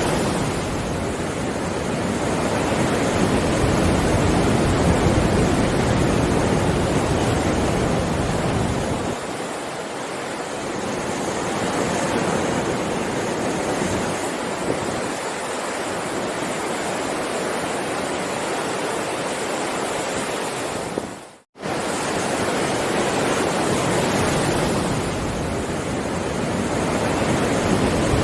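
Heavy ocean surf: waves breaking continuously, swelling and easing every few seconds. About two-thirds of the way in, the sound cuts out to silence for a split second and then resumes.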